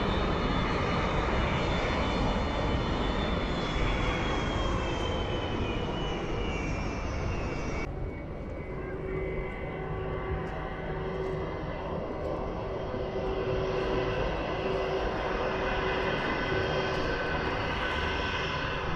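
Airliner jet engines: a whine that falls slowly in pitch over the first several seconds. After an abrupt change about eight seconds in, it gives way to steady engine tones that grow a little louder.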